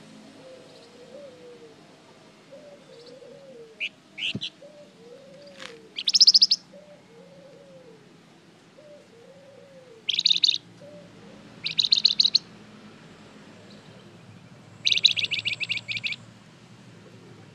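A songbird of the kind called 'flamboyan' in Indonesian songbird keeping sings in short bursts of rapid, high trilled chirps. There are about six bursts, each roughly a second long, with pauses between them; the one about six seconds in is the loudest.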